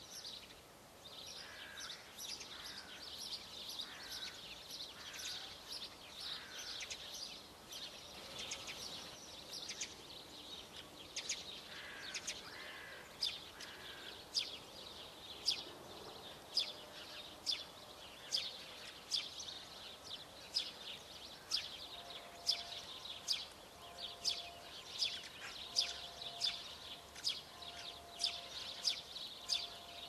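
Songbirds singing and calling: dense high chirps throughout, becoming a regular run of sharp chirps about one and a half a second in the second half, with a few lower falling notes in the first half.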